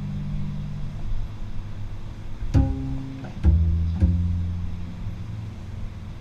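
Double bass strung with gut strings, played pizzicato: a low note rings and fades, then three plucked notes follow a little before halfway and over the next second and a half, each left to ring and die away.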